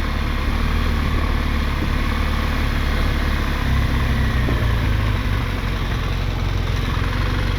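BMW GS motorcycle engine running steadily, its low drone shifting in pitch about halfway through.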